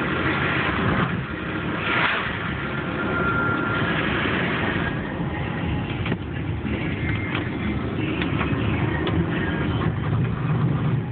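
A car running steadily: an even engine hum under a constant hiss, with a few faint clicks.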